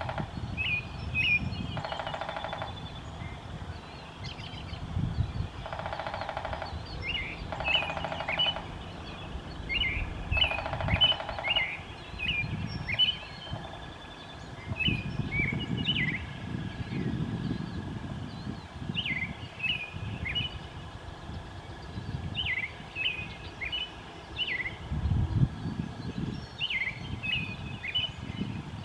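Downy woodpecker drumming on wood: short, very rapid rolls about a second long, four of them in the first twelve seconds, the species' territorial signal. Other birds chirp throughout, with bouts of low rumbling noise.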